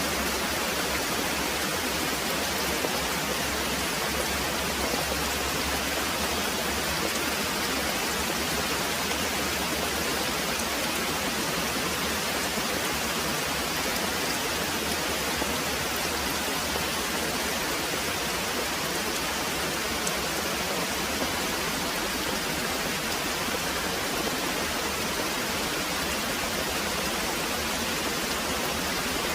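Very heavy rain pouring steadily, a dense, even hiss that does not change.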